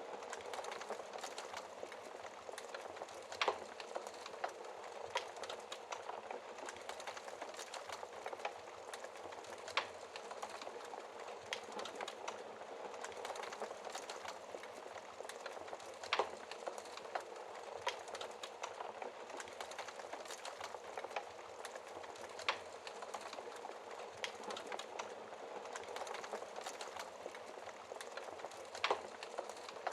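Wood fire burning behind a fireplace's glass shield: a steady soft hiss with constant small crackles and a louder pop every six seconds or so.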